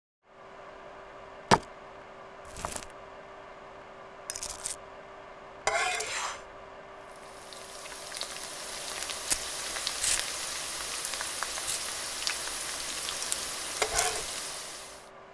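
A few sharp clicks and knocks, the loudest about a second and a half in. Then a burger patty sizzles in a frying pan from about seven seconds in, a steady crackling hiss, with a spatula scraping and clattering in the pan near the end.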